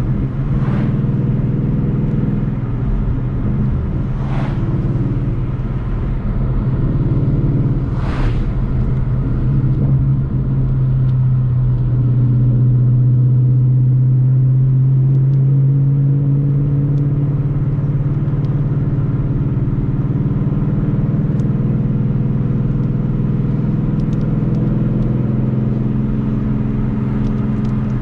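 Ford Mustang GT's V8 engine running at a fairly steady cruise, its note swelling slightly about halfway through, over steady road noise. A few brief hisses in the first eight seconds.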